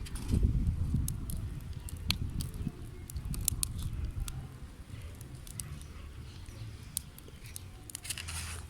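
Small campfire of cardboard and twigs catching, with scattered sharp crackles, under a low rumble of wind on the microphone.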